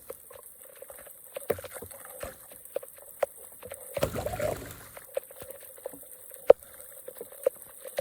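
Water dripping and splashing in irregular small drops and plops, with one larger splash about four seconds in.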